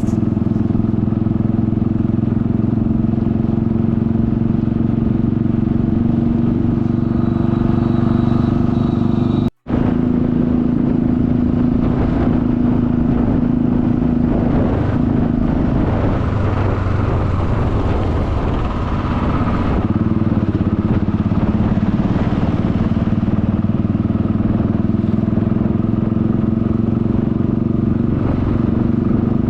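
Motorcycle engine running steadily while riding, with wind and road noise over it; the sound cuts out for a moment about ten seconds in, then carries on.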